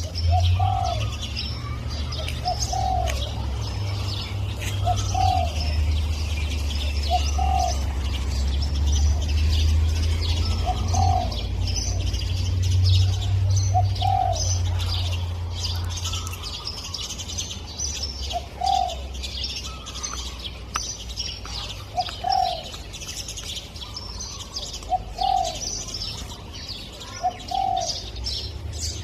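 Spotted dove cooing, its short phrases repeated every two to four seconds, over steady chirping of smaller birds. A low rumble runs under the first half and fades out.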